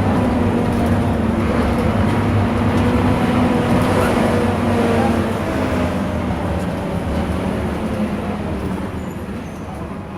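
Scania K230 bus diesel engine running under way, steady for about five seconds, then the engine note drops and it grows quieter as the bus eases off.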